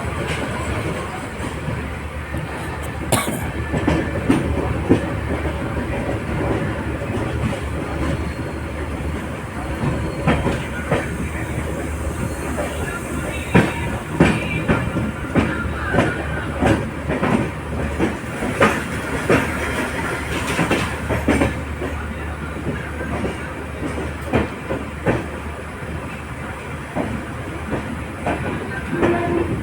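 Moving LHB passenger train heard on board: a steady low rumble with irregular clicks and knocks from the wheels running over the track.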